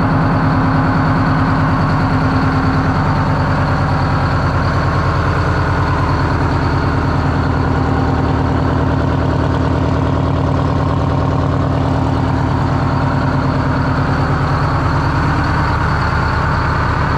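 Detroit Diesel engine of a monster truck idling steadily, with an even, rapid pulsing firing rhythm.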